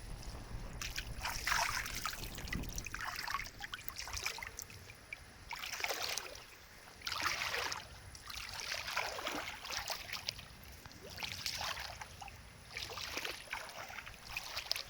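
Water swishing and splashing in irregular strokes, about one every couple of seconds, over a low wind rumble on the microphone.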